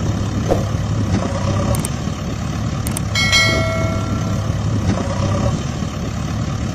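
Steady low engine-like hum, with a few light knocks and a single metallic ring about three seconds in that fades over a second or so.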